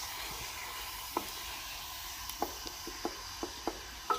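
Onion-tomato masala with powdered spices sizzling in a steel pot as it is fried. A wooden spoon stirs it, knocking and scraping against the pot about seven times, mostly in the second half.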